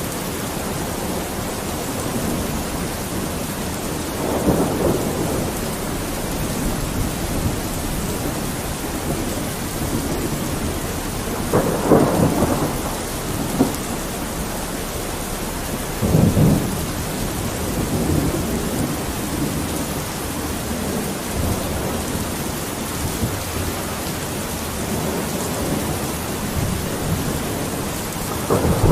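Steady heavy rain with a few brief deeper surges about 4, 12 and 16 seconds in and again at the very end.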